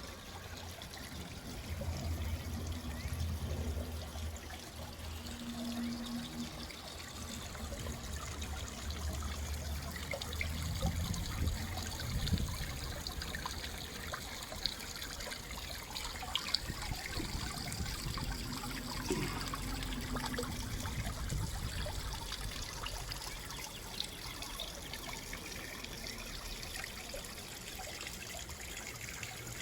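Water trickling steadily in a garden pond.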